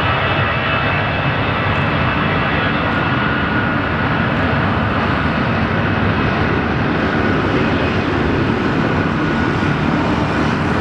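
Jet airliner engines running loud and steady close by, a rushing roar with a high whine over it. The whine eases somewhat in the second half, and the sound cuts off suddenly at the end.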